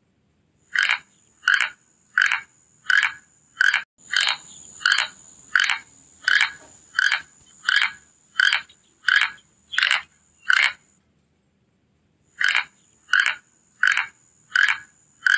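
A rhythmic series of short, raspy animal calls, about one and a half a second, over a steady high-pitched whine; the calls pause for a second or so past the middle, then resume.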